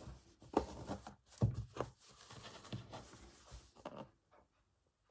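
Embroidery needle and thread passing through fabric: scratchy rasps as the thread is drawn through the cloth, with a few soft bumps of handling in the first couple of seconds.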